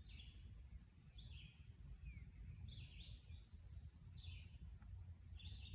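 Faint chirps of a small bird, short calls repeated about once a second, over a steady low outdoor rumble.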